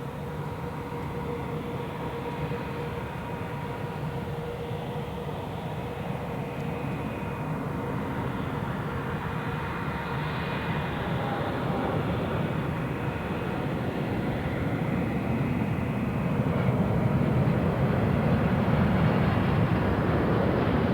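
Jet airliner engines running with a steady whine and a low rumble, slowly growing louder.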